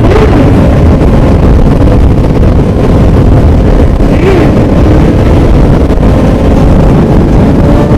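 Motorcycle engines running under heavy wind noise on the microphone, their pitch wavering with a short rise and fall about four seconds in.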